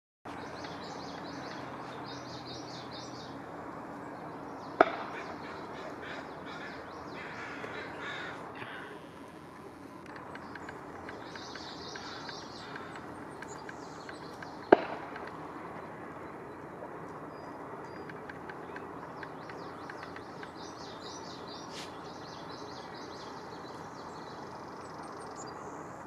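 Other birds calling in series of short high notes over a steady outdoor background noise, with two sharp clicks about five and fifteen seconds in.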